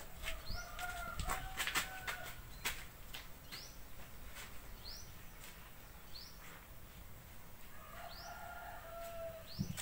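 Birds in the background: a short rising chirp repeated about once a second, with a longer held call near the start and again near the end. There are a few faint clicks early on.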